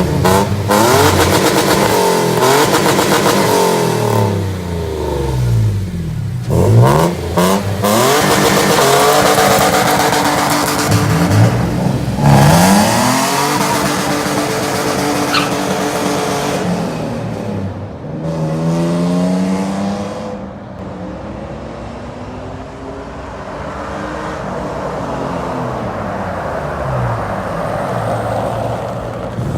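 Toyota Land Cruiser 70's 4.0-litre V6 running through an aftermarket exhaust with headers, a Vortec mid muffler and a Flowmaster HP-2 rear muffler, a mid-to-loud tone. The engine is revved in several quick blips, then held at higher revs twice. It then drops back to a lower, steadier note for the last third.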